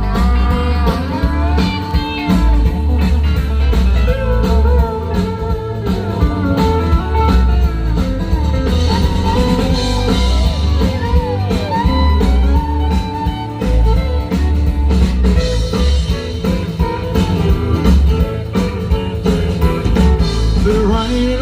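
Live country-rock band playing an instrumental break: a lead electric guitar solo with bent notes over bass and a drum kit.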